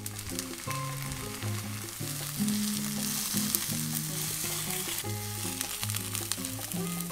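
Low-carb gyoza wrapped in bean curd skin frying and sizzling in a pan, the sizzle growing louder about two and a half seconds in. Light background music plays under it.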